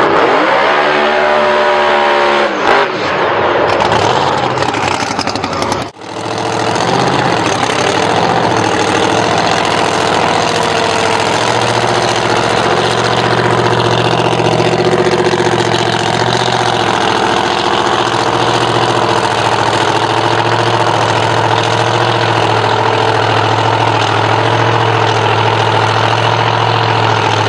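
Drag car engine revving, its pitch falling and rising over the first few seconds. After a sudden break it runs on steadily at an even pitch for the rest of the time.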